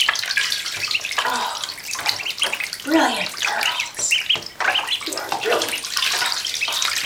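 Week-old runner ducklings splashing and paddling in a few inches of water in a tub, with many short, high peeps from the ducklings.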